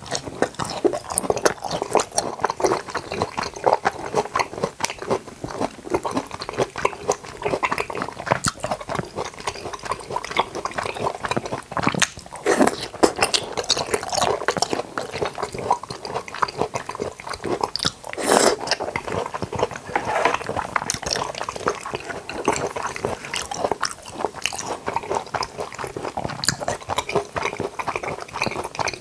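Close-miked chewing of jackfruit: dense, wet, sticky mouth sounds and soft crunches, with a couple of louder bites or slurps about twelve and eighteen seconds in.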